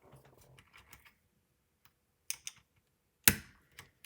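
Plastic keycap being handled on a mechanical keyboard: faint rustling, a few light clicks, then one sharp loud click a little over three seconds in as the shift keycap is pressed down onto its switch, followed by a smaller click.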